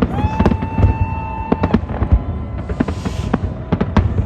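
New Year fireworks going off in quick succession, a dense string of sharp bangs and pops. A single held high tone sounds over them for the first second and a half.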